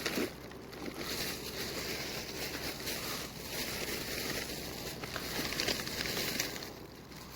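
Steady, gusty outdoor noise on open water: wind on the microphone over water sounds around a kayak, with a few faint crackles.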